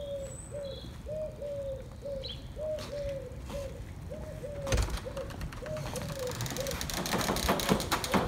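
A bird calling steadily outdoors, short repeated notes about three a second. From about halfway in, a cottage door is unlocked and opened, with clicks and knocks and then footsteps on the threshold.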